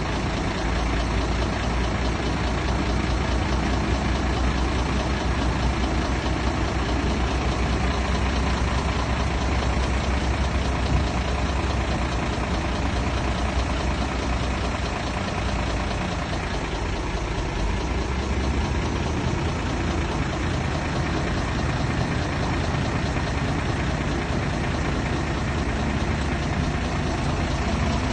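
Heavy diesel earthmoving machinery running steadily with a deep low rumble, easing briefly a little past halfway.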